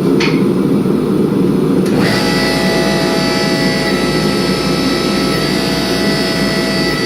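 Forge burner running with a loud, steady roar; about two seconds in, a steady high whine joins it and holds.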